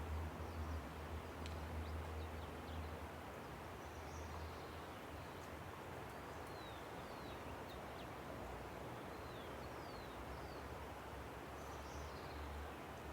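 Steady rushing of a river, with birds giving short, high chirps that slide downward, scattered through the middle stretch. A low rumble fades out over the first few seconds.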